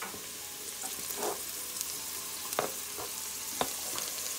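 Chopped onion frying in oil in a stainless steel pot, a steady sizzle, as chopped peppers, garlic and thyme are scraped in off a plastic cutting board. A few sharp taps and knocks break in over the sizzle.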